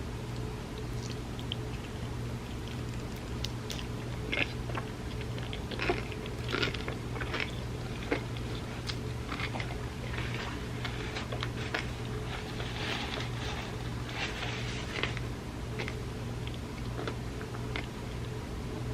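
Close-miked eating: chewing and wet mouth sounds of chocolate cake soaked in warm almond milk, with scattered sharp clicks and smacks, busiest in the middle, over a steady low hum.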